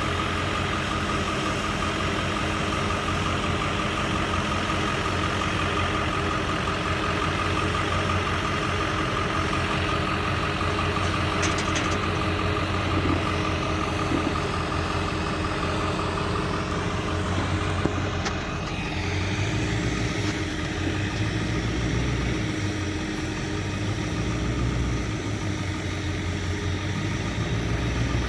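Farm machinery engine running steadily during a corn silage harvest, with a steady whine over it. About two-thirds of the way through, the whine drops away and the low engine hum swells and eases in slow pulses.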